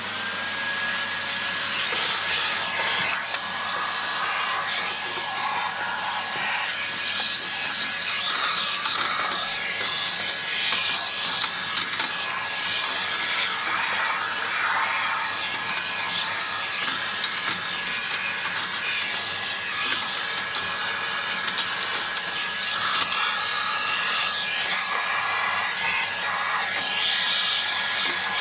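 A small high-speed electric motor running steadily with a constant whine over a rushing airflow hiss, starting abruptly.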